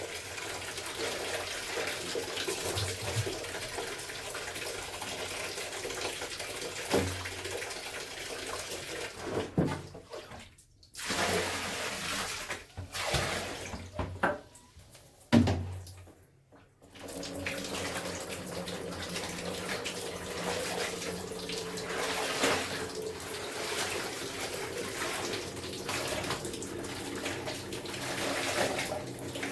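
Water running and splashing, as in hand-washing clothes, with a few louder splashes. The flow breaks off briefly twice, about ten seconds in and again about sixteen seconds in.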